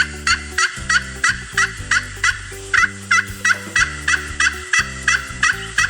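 Turkey gobbling: a long, rapid run of short repeated gobble notes, about three a second, over soft background music.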